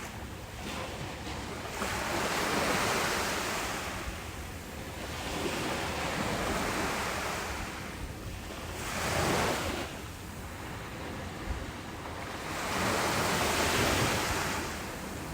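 Ocean waves breaking and washing up on a beach. Three surges, each swelling and easing off over a few seconds, about every four to five seconds.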